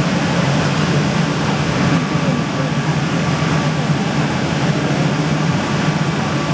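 Steady loud roar of an open-air street food stall: a constant low mechanical rumble with a faint steady whine, with no distinct clatter or voices standing out.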